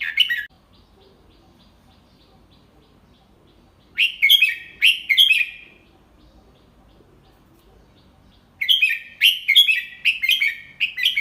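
Red-whiskered bulbul singing in phrases of quick, clear chirping notes. A short phrase comes right at the start, another about four seconds in, and a longer one near the end. This is the slow, clear 'double-three' teacher song that is played for young bulbuls to learn.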